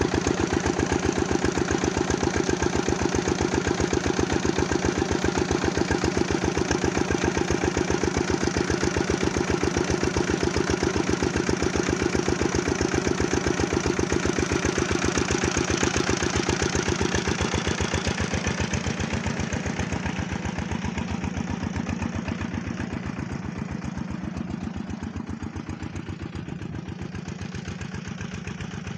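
Diesel engine running steadily with a fast, even chug. About two-thirds of the way through it grows quieter and duller.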